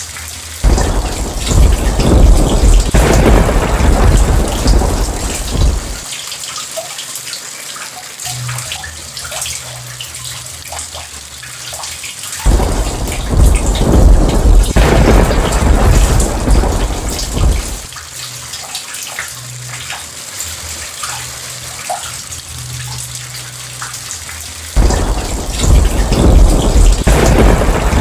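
Steady heavy rain with thunder rumbling three times. Each rumble starts suddenly and lasts about five seconds before fading back to the rain.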